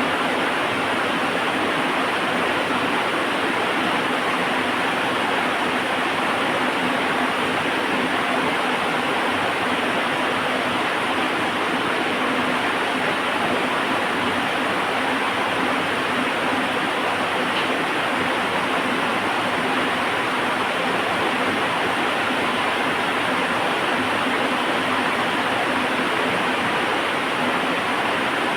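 Heavy rain falling steadily, an even hiss with no thunder or single drops standing out.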